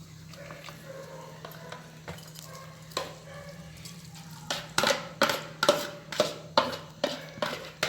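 A spoon clinking and scraping against dishes as eggplant salad is spooned into an ovenproof baking dish. It is quiet at first with a single knock about three seconds in, then from about halfway there is a run of sharp clinks, about two a second.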